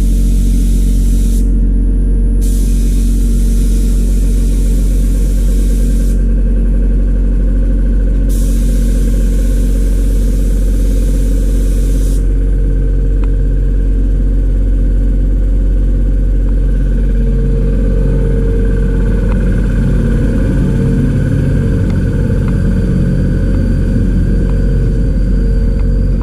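Spray hiss from cleaning the condenser coil, coming in three long bursts in the first half and then stopping, over a steady motor hum.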